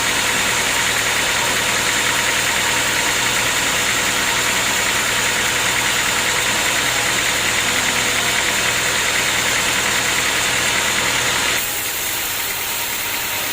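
Sawmill machinery running steadily, a loud engine-like hum with a hiss over it; about eleven and a half seconds in the hiss drops away suddenly and the sound gets quieter.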